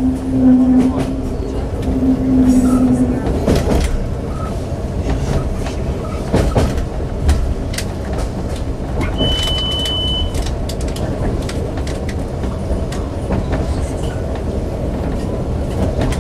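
Ride noise inside a Siemens Desiro diesel multiple unit running at speed: a steady rumble of wheels on rail with scattered clicks from the track. A steady low hum sounds through the first three seconds, broken once, and a brief high beep comes about ten seconds in.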